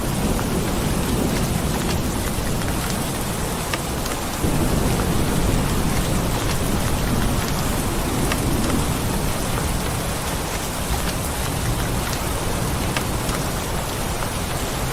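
Steady heavy rain with a low thunder rumble underneath, swelling about four and a half seconds in and then fading back.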